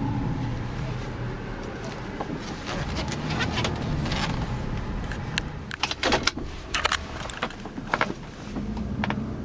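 2002 Jeep Liberty running on a drive, heard from inside the cabin: a steady engine and road hum. From about two and a half seconds in come irregular clicks and knocks, the loudest about six seconds in.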